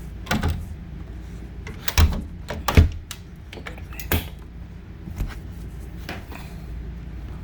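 A series of short, sharp knocks and clicks, about six in all, from handling doors, latches or fittings inside an RV. The loudest is near three seconds in, over a steady low hum.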